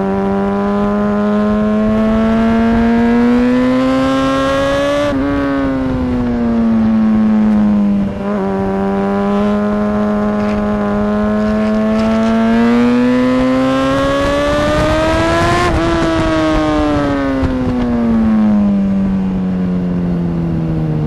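Motorcycle engine at speed, heard from on board: its revs climb for about five seconds, drop off, climb again for longer to their highest point about three-quarters of the way through, then fall away near the end as the bike slows.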